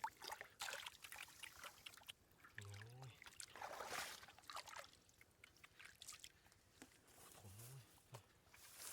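Faint water trickling and splashing with scattered small clicks, and a short low voice-like sound twice, once early and once near the end.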